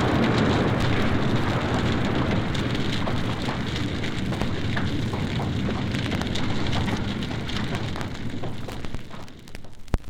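Fire crackling while fire hoses spray water onto it: a dense hiss of spray over many small crackles and pops. It fades out near the end.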